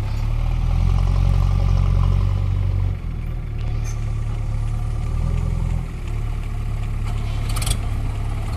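Mahindra 575 DI tractor's four-cylinder diesel engine running. It swells over the first few seconds, drops off sharply about three seconds in, and rises again briefly before settling. There is a short sharp clack near the end.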